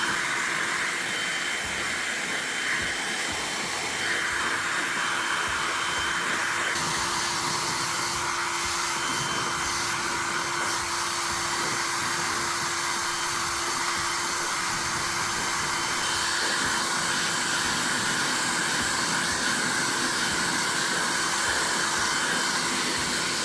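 Feekaa ionic hair dryer blowing on its high-speed setting: a steady rush of air with a faint, even motor whine, shifting slightly in tone a few seconds in as it is moved.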